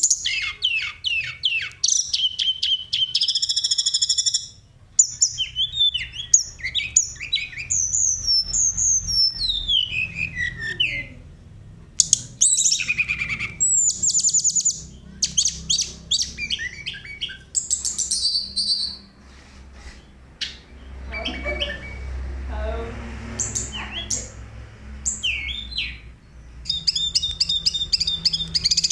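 Mountain tledekan (sulingan) singing: a string of high-pitched phrases made of rapid trills and falling whistled notes, with short pauses between phrases.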